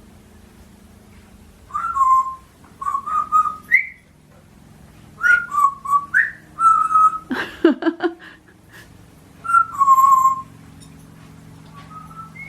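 African grey parrot whistling: a string of short clear whistled phrases, several stepping down or gliding up in pitch, with one harsher falling call about halfway through.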